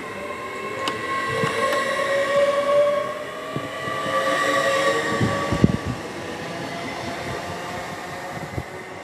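A train running through the station: a rumble with a steady high whine over it. It is loudest around the middle, with a few low thumps, then fades toward the end.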